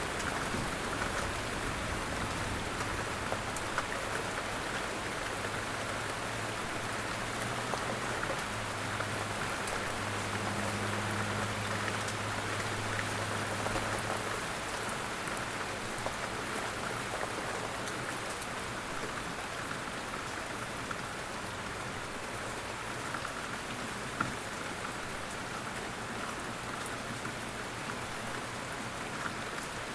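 Steady rain falling, an even hiss of dense drops. A low rumble underneath fades out about halfway through.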